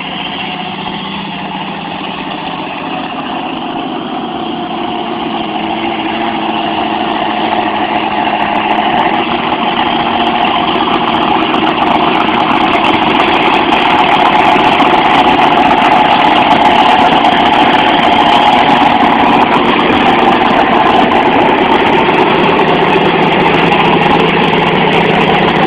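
Monster truck engine running at a steady speed, growing louder over the first dozen seconds.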